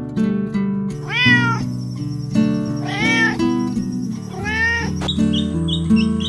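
A cat meowing three times, each meow about half a second long and rising then falling in pitch, over acoustic guitar music.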